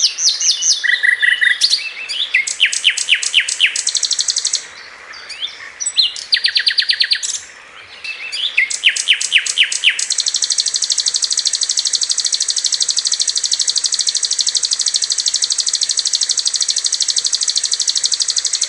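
Sikatan londo flycatcher song: short runs of sharp, rapidly repeated high notes with pauses between them. About ten seconds in, these give way to a long, very fast rapid-fire trill that keeps going without a break, the "tembakan" phrase.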